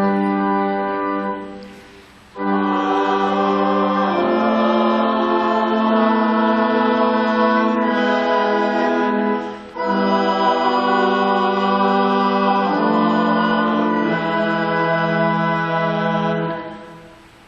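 Choir singing a slow sung response with organ accompaniment, in long held phrases. There is a short pause about two seconds in and a brief break near ten seconds. The music ends just before the close.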